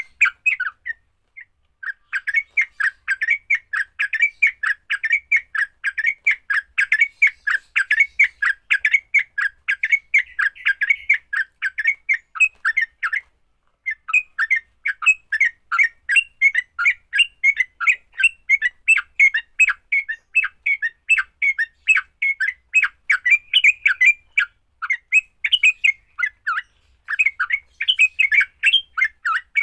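Yellow-vented bulbul (trucuk) giving its agitated fighting chatter, rapid notes several a second, with a short pause near the start and another about halfway through.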